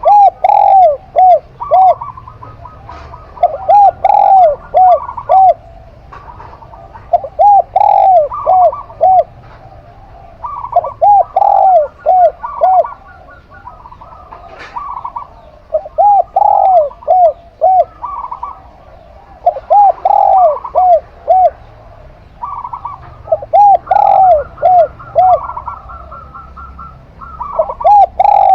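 Zebra dove and spotted dove cooing: a phrase of several quick, arched coo notes comes about every four seconds, with short pauses between phrases.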